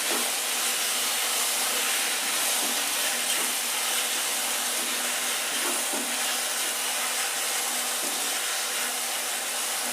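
Onion, tomato and ginger-garlic masala sizzling steadily in hot oil in a kadai while the tomatoes soften, an even hiss.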